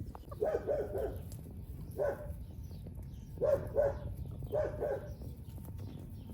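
A dog barking in short bursts of quick barks, about five bursts, over a steady low rumble.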